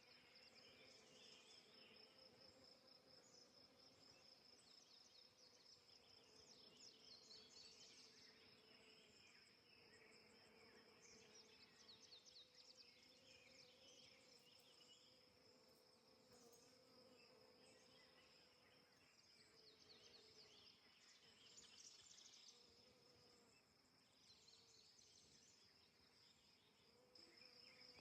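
Faint buzzing of bees, a low wavering drone, with a steady high-pitched insect trill and scattered brief chirps over it.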